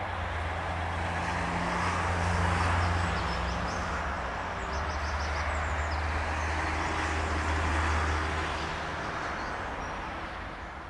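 Double-deck electric commuter train running on curved track: a steady low rumble and hum with a few brief high-pitched squeaks about halfway through, fading near the end as the train draws away.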